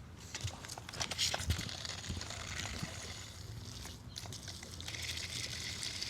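Water running and splashing from a garden hose hooked up to an electric pressure washer, with scattered small clicks and knocks.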